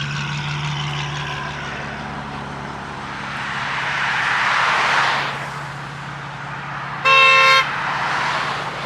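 A car idles while a rush of passing-traffic noise swells and fades midway. Then, about seven seconds in, a car horn gives one short, loud honk.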